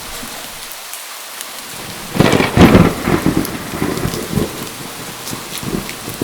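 Steady rain falling, with a sudden loud thunderclap about two seconds in that rolls and rumbles away over the next few seconds.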